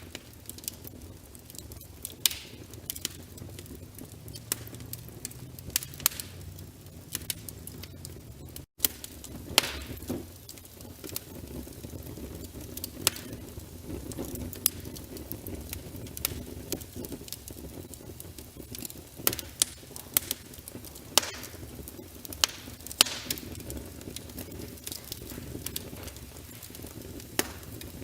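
Wood fire crackling in a fireplace: sharp, irregular pops and snaps from the burning logs over a steady low rumble of flame. The sound drops out for an instant about nine seconds in.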